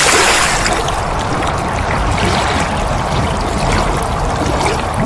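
Storm wind blowing hard, a loud steady rush with heavy low buffeting on the microphone.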